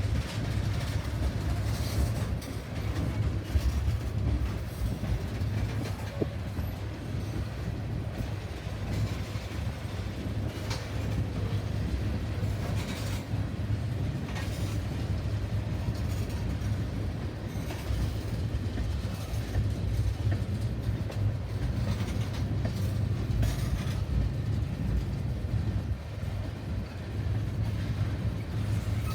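Train rolling past with a steady low rumble, its wheels clicking now and then over rail joints.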